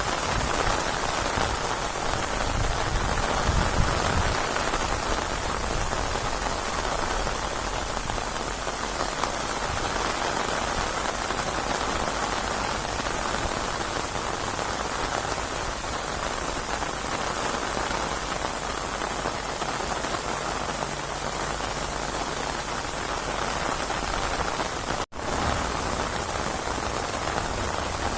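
Steady rain falling, an even hiss of drops on a surface. About 25 s in, the sound cuts out for an instant and then resumes.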